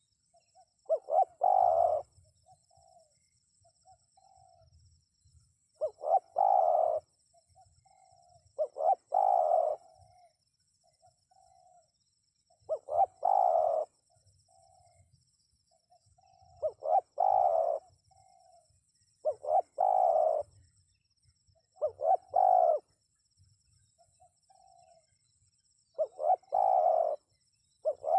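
Spotted dove (tekukur) cooing: loud phrases of a few low, rolling coos come about every three to four seconds, with softer single coos in between.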